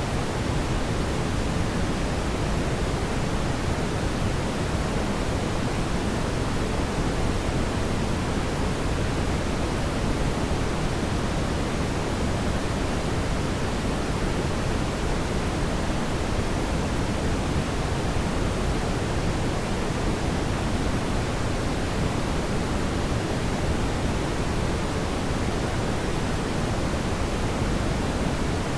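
Fire burning in a fireplace, heard as a steady, even rushing noise without distinct crackles or pops.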